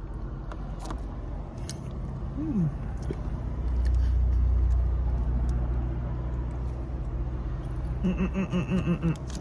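Low rumble of a passing car, swelling about four seconds in and then fading away.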